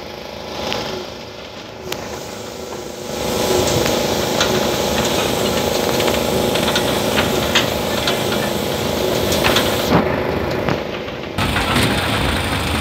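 Wooden train carriages rolling along the rails: a steady running rumble with frequent clanks and rattles from the wheels and the chain-and-hook coupling. It gets louder about three seconds in.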